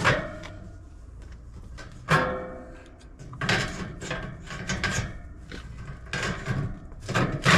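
Handling noise of the condenser fan motor and its mounting hardware being adjusted by hand: a run of irregular knocks, clunks and scraping, loudest about two seconds in and near the end.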